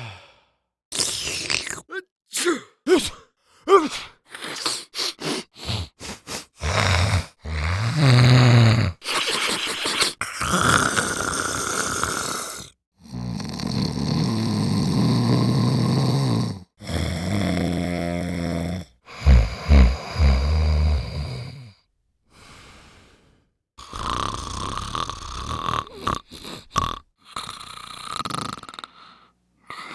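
A series of separate human non-speech noises from a sound-effects library. Short breath and mouth sounds follow one another quickly for the first several seconds, then longer drawn-out ones come with brief pauses between them, some of them snore-like.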